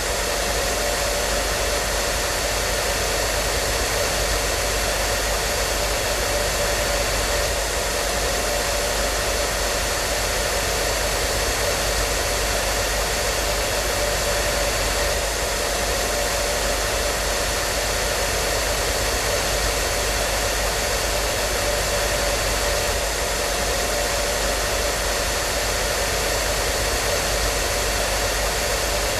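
Hand-held hair dryer running steadily, a constant rush of blown air with a faint steady whine from its motor.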